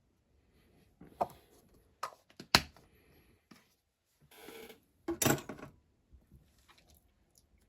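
Small hard objects being handled on a workbench: a few sharp clicks and knocks, a brief rustle, then a short clatter a little past halfway.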